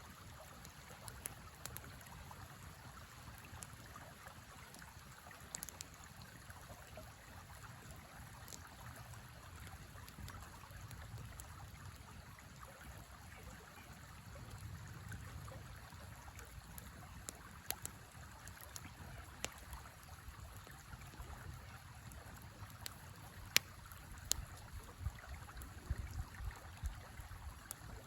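River water running steadily, with a campfire giving scattered sharp crackles and pops, more of them in the second half.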